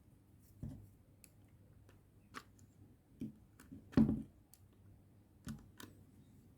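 Scattered clicks and light knocks from hands working small parts and tools, about seven in all, with the loudest, deepest knock about four seconds in, over a faint low hum.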